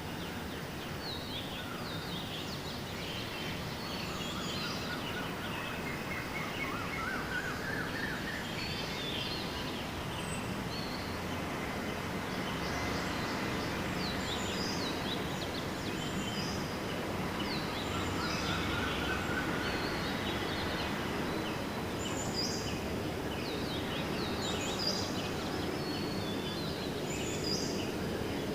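Dawn chorus of several birds calling: many short, high chirps throughout, and twice a series of notes climbing in pitch, over a steady background rumble of noise.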